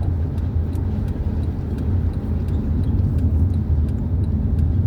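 Steady low road and engine rumble inside a moving car's cabin, with faint light ticks scattered through it.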